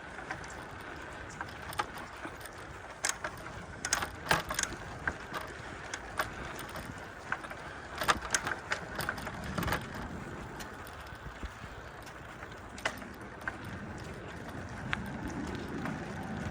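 Bicycle ride over a trail: a steady rolling and wind rush with frequent sharp clicks and rattles from the bike as it goes over bumps, busiest a few seconds in and again around the middle.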